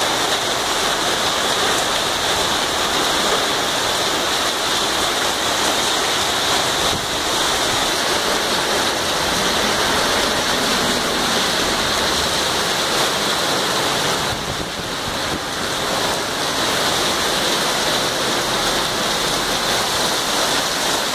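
Heavy rainstorm downpour pouring onto a flooded street: a loud, steady rush of water, briefly a little softer about fourteen seconds in.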